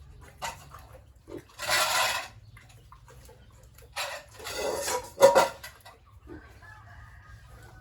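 Pigs squealing: two loud, harsh outbursts about two seconds apart, with a sharp clank near the end of the second.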